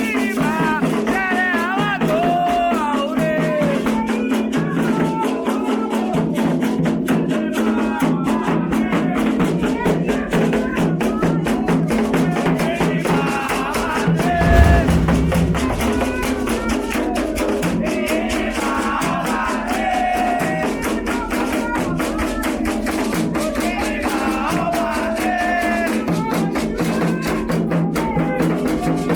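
Candomblé ritual music: voices singing over the rapid shaking of rattles and drumming, with one low thump about halfway through.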